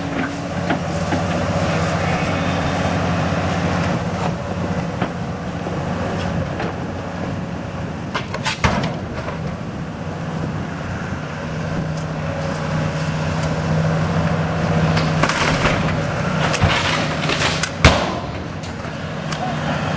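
A heavy demolition machine's engine running steadily, with sharp cracks and crunches of the structure breaking under it, a burst of crackling late on and the loudest crack just before the end.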